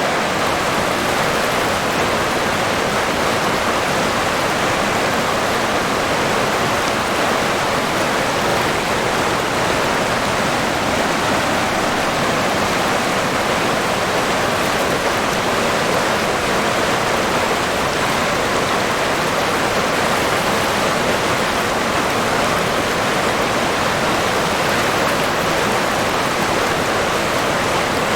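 River water rushing and babbling in a steady, loud, unbroken wash.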